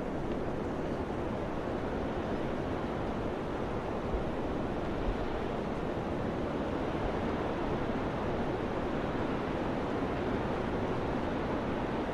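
Wind blowing in a steady rush, with a couple of brief low buffets on the microphone about four and five seconds in.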